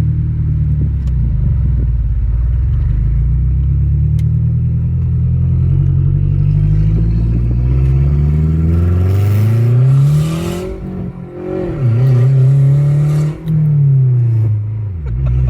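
Mazdaspeed6's turbocharged 2.3-litre four-cylinder, loud through an open downpipe, pulling with engine pitch climbing steadily for several seconds. About ten seconds in the revs fall away, then they climb again and drop sharply once more near the end.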